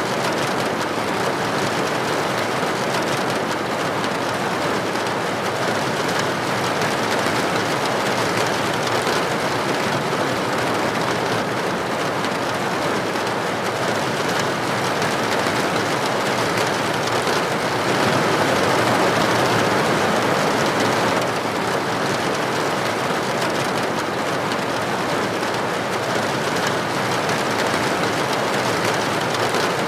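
Steady heavy rain falling, a dense even hiss of drops, swelling a little louder for a few seconds past the middle.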